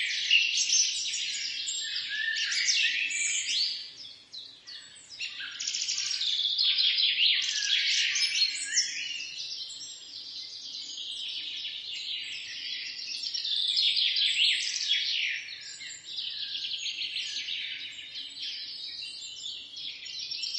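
Small songbirds chirping in a dense, overlapping chorus of quick high chirps and rapid trills, briefly quieter about four seconds in.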